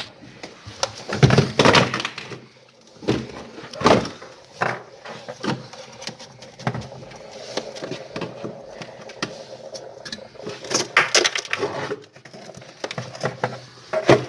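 Irregular knocking, scraping and clattering of hand work on a Haier double-door refrigerator's iced-up freezer compartment, with sharper clusters of knocks about a second in, near four seconds, and again around eleven seconds.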